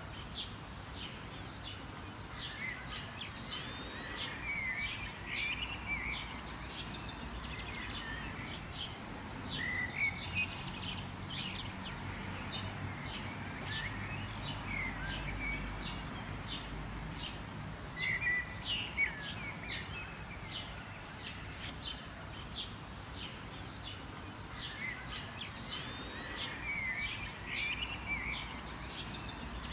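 Songbirds chirping and calling continuously, several short chirps a second with brief warbled phrases among them, over a low, steady background rumble.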